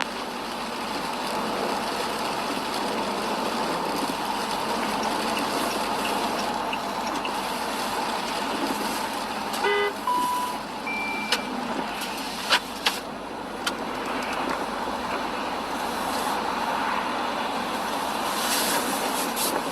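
Steady road and engine noise from a moving vehicle, with a short horn honk just under halfway through, followed by two brief electronic beeps and a few sharp clicks.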